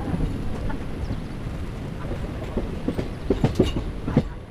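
Passenger train coaches running on the rails, heard from the open doorway: a steady rumble with wheels clacking over the track, the sharpest clacks coming in a quick cluster near the end.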